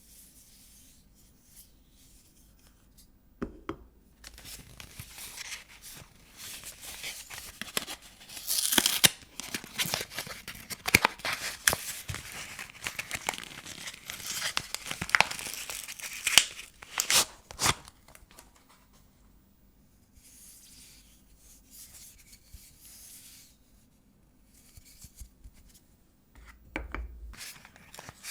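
Paper wrapper of a vintage bar of soap being torn open and crinkled by hand. The tearing and rustling come thickest in the middle, with sharp crackles. They then die down to a few softer rustles and small handling sounds near the end.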